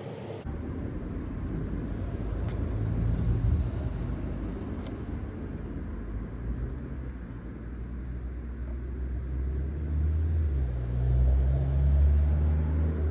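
Low engine rumble of a nearby car, swelling about three seconds in and again, louder, near the end.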